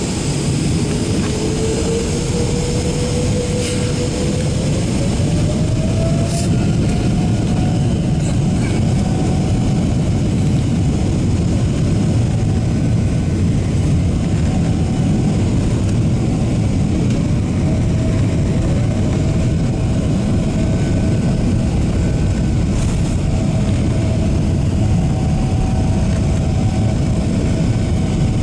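Boeing 777-300ER's GE90 engines heard from inside the passenger cabin: a steady rumble with an engine whine that rises in pitch over the first several seconds and then holds steady, rising again briefly about two-thirds of the way through.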